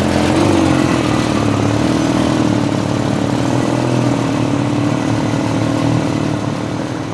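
Vehicle engine running at a fairly steady pitch over street traffic noise, with a slight rise in pitch just after the start and fading a little near the end.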